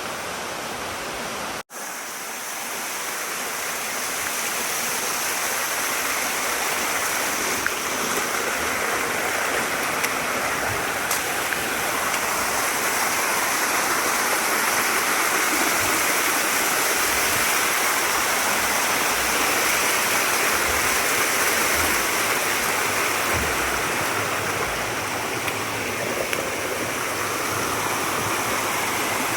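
Mountain stream water rushing and splashing over rocks in a steady, loud flow, with a momentary break about two seconds in.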